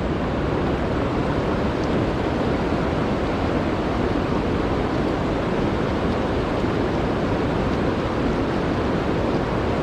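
Steady rushing noise with no distinct events, heaviest in the low range, of the kind wind on the microphone and flowing creek water make together.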